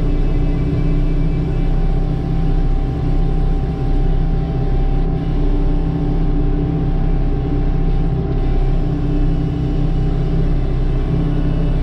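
A heavy machine's diesel engine running steadily with a constant drone and a steady whine, as it works snow on a parking lot.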